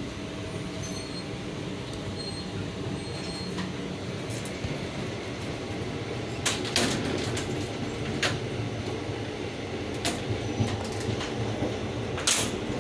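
Passenger train coach running on the rails, heard from inside: a steady rumble with a few sharp knocks from the wheels and track, spaced about two seconds apart in the second half.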